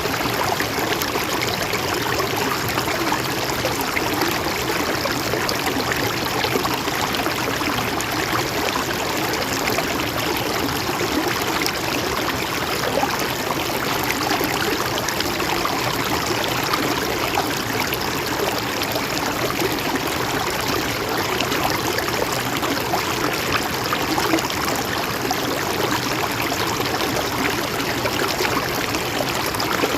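Mountain stream flowing steadily over rocks, a continuous rush with fine trickling and splashing.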